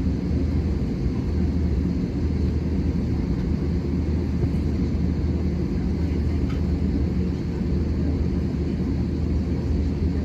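Steady low rumble of an Airbus A320-200 heard from inside the passenger cabin while the aircraft is on the ground before takeoff.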